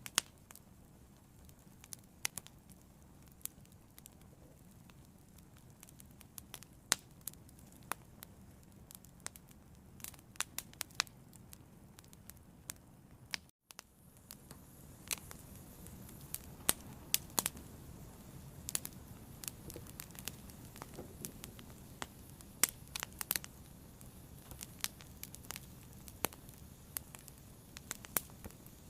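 Fire burning, with irregular sharp crackles and pops over a low steady hiss. About halfway through the sound drops out for a split second, and the hiss comes back slightly louder.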